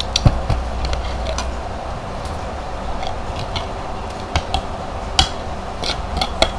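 Scattered light clicks and clinks of tableware and food being handled at the table, with a sharper knock about a quarter second in.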